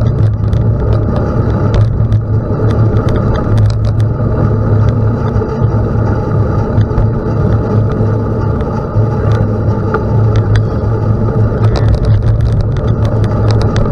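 Steady, loud rumble of a bicycle rolling on a gravel road, with wind buffeting the microphone and scattered small clicks and rattles from the stones and the bike.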